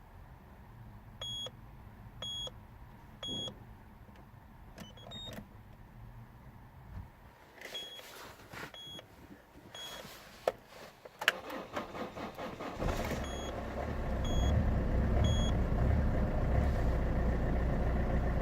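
Peugeot 206 1.4 HDi four-cylinder turbodiesel cold start. Two sets of three short electronic beeps come first. About eleven seconds in, the starter cranks briefly and the diesel catches, then runs at a loud, steady idle while three more beeps sound.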